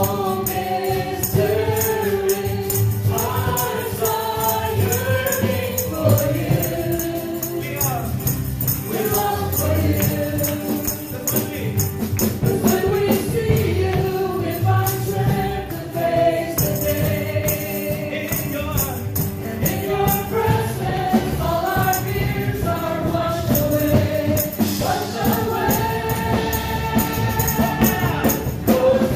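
Gospel worship song: a congregation or choir singing together over a band with tambourine keeping a steady beat.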